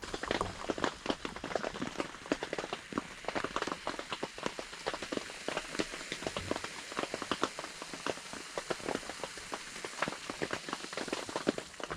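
Rain falling, its drops landing in dense, irregular ticks over a steady hiss.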